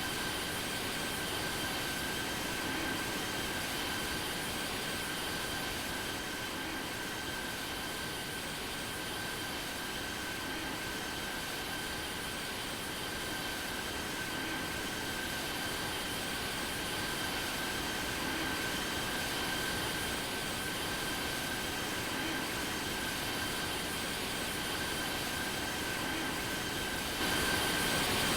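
Jet engines of an Airbus A380 running steadily: a constant rush with a high, even whine, a little louder near the end.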